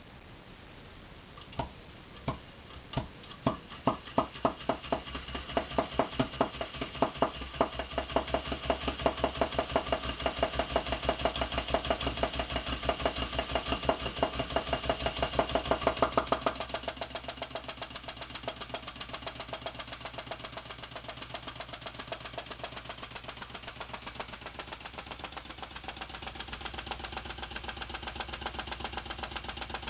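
Model Scott vacuum (flame-licker) engine starting: a few slow, separate beats that quickly speed up into a fast, even running rhythm. It carries on running steadily, somewhat quieter from about halfway through.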